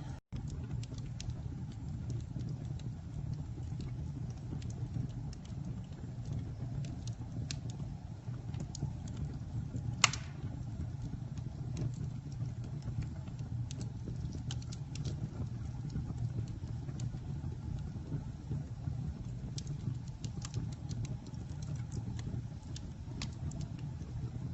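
Campfire burning: a steady low rumble of flame with scattered crackles and one loud pop about ten seconds in.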